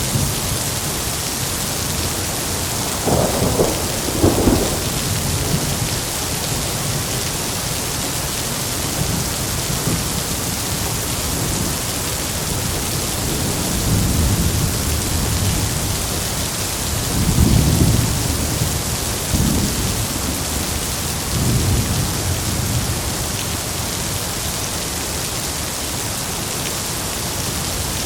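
Heavy rain falling steadily, with thunder rumbling through it several times: a double crack a few seconds in, then low rolls around the middle and later.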